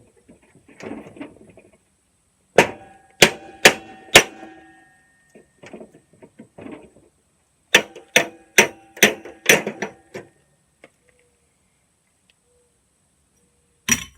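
A hammer striking metal in two rapid runs, four blows then about six blows, each ringing briefly, with one more blow near the end and lighter clanking of parts between.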